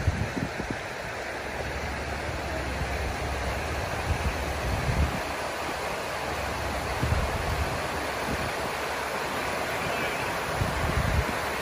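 Strong storm wind with the steady rush of wind-driven rain, and gusts buffeting the microphone in low rumbling pulses.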